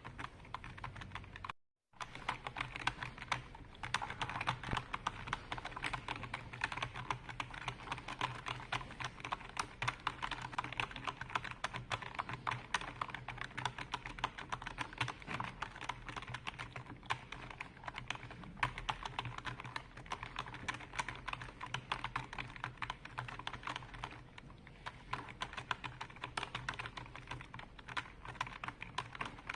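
Continuous fast typing on a computer keyboard: a dense run of key clicks with a brief dropout a little under two seconds in, over a faint steady low hum.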